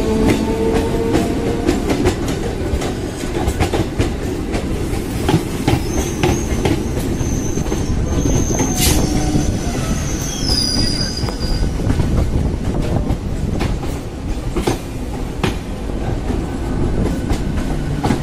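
Electric multiple unit suburban trains running side by side on adjacent tracks: a steady rumble with wheels clacking over rail joints and points, and a high wheel squeal for a few seconds in the middle.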